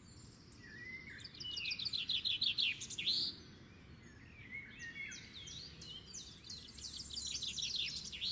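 Birds singing: a fast run of high chirps about a second in, then whistled glides and another fast run of chirps near the end.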